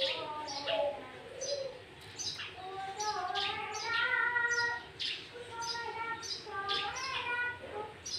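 Sooty-headed bulbul (kutilang) singing a fast, varied run of whistled gliding phrases mixed with sharp high chirps, its song filled with greater green leafbird (cucak ijo) imitations.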